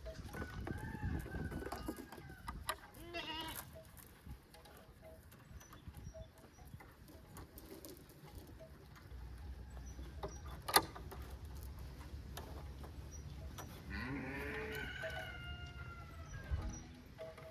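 Goats bleating: three calls, one wavering and the longest, falling in pitch, near the end. A single sharp knock sounds about eleven seconds in.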